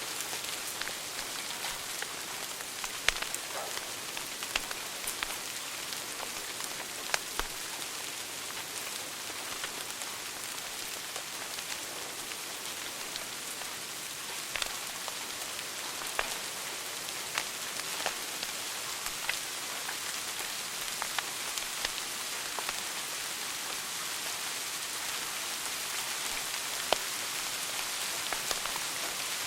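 Wood fire crackling in a fireplace: a steady hiss with sharp pops at irregular intervals, a few of them louder than the rest.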